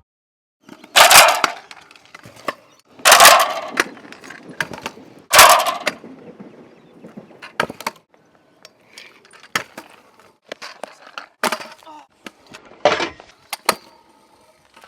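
Skate-spot riding: three loud clattering landings and scrapes, about two seconds apart, followed by a string of lighter knocks and clicks of wheels and decks.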